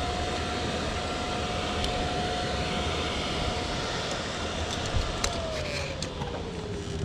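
Steady vehicle noise with a single thin whine that holds one pitch, then slides down over about two seconds from five seconds in.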